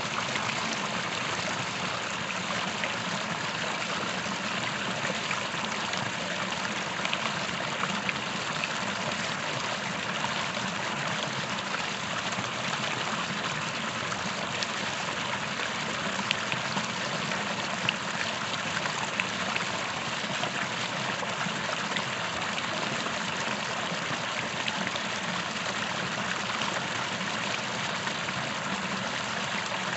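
Creek water running and trickling over stones, a steady rushing with small splashes and drips.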